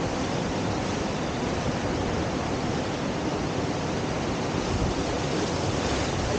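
Steady rush of whitewater from the Deschutes River standing surf wave, an even roar of churning river water with no breaks.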